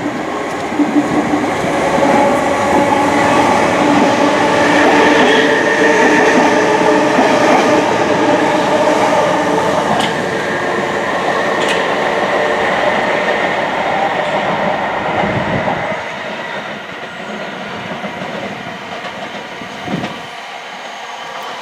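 Passenger train passing, with several steady tones over a rumble. The sound stays loud for about sixteen seconds, then drops away, with a short thump about twenty seconds in.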